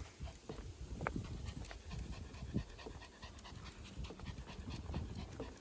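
A dog panting, with scattered short rustles and clicks.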